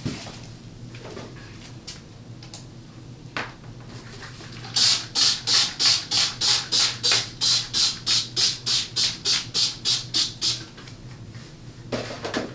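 Quick, rhythmic scrubbing strokes, about four a second, kept up for several seconds from about five seconds in, after a few scattered clicks and knocks: a cloth or brush being worked back and forth while cleaning.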